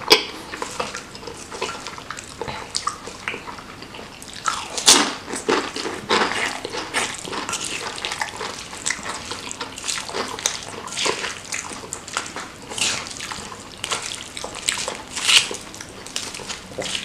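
Close-up wet chewing and smacking of seblak, soft wet crackers and noodles in chili sauce, as an irregular run of short wet clicks and squelches. Near the end a wooden spoon stirs through the saucy food in a stone mortar.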